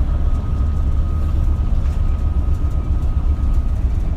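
Interior running sound of an Isuzu Erga (KL-LV280L1) route bus: a steady deep engine and road rumble, with a thin steady whine above it that fades out near the end.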